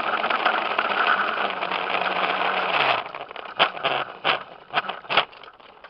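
Razor electric dirt bike's motor and chain drive whirring steadily, then winding down in pitch and stopping about three seconds in as the bike coasts to a halt. It is followed by a handful of sharp knocks and clicks.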